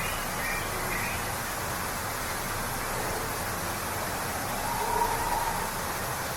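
Waterfall rushing with a steady, even roar of falling water, with a few faint bird calls in the first second and again about five seconds in.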